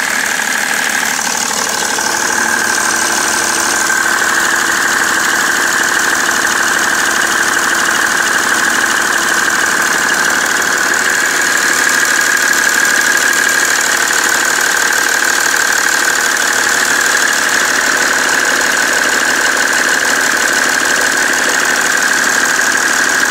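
BMW 330d's 3.0-litre straight-six diesel running steadily with a knocking sound. The knock appeared after the main and EGR thermostats were replaced, and its cause is unknown to the owner.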